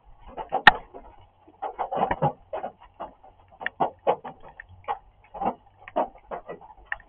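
Rain drumming: drops striking a hard surface near the camera as irregular taps, several a second, with one sharper, louder tap a little under a second in.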